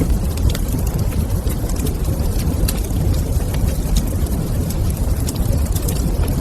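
Fire burning in a fireplace, crackling with many small irregular pops over a steady low rumble.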